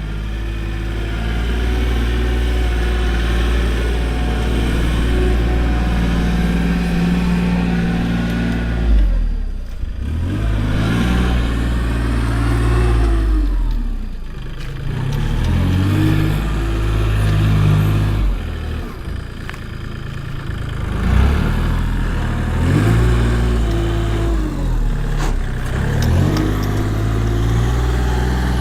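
A large engine running steadily and revving up and dropping back again and again, working under changing load.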